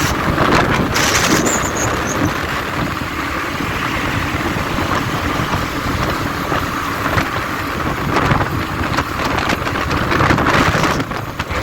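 Wind rushing over the microphone with engine and road noise from a moving motorbike, a loud steady rumble and hiss.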